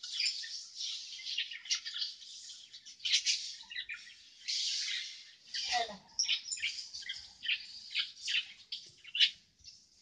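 Small birds chirping: many quick, high chirps overlapping in an irregular chatter.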